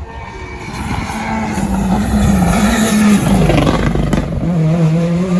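Rally car at full speed, its engine growing louder as it approaches, with the engine note dropping in pitch as it passes about three and a half seconds in, then holding steady.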